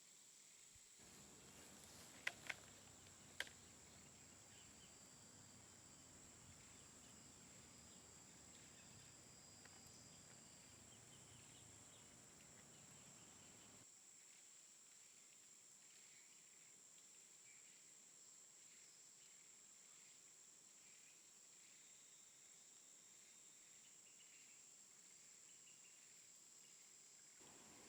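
Faint woodland ambience with a steady high-pitched insect drone, broken by three sharp clicks about two to three and a half seconds in.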